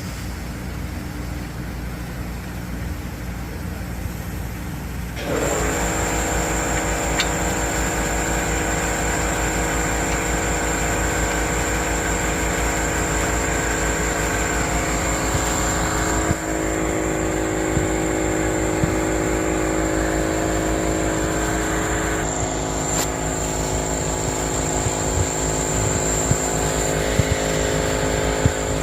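Vehicle engine running steadily. About five seconds in it gets louder, and a steady whine of several tones joins it; the whine changes pitch twice later on.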